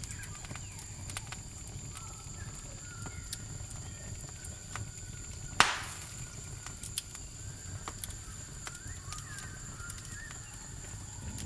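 Campfire crackling with scattered sharp pops, one much louder pop about halfway through. Behind it run a steady high-pitched cricket chirring and a few short faint calls.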